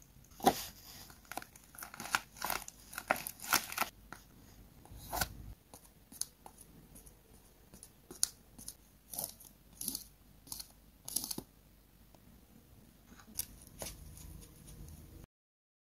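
Paper crinkling and tearing as a paper squishy is handled: a run of irregular sharp crackles, then a few more after a short lull, before the sound cuts off suddenly near the end.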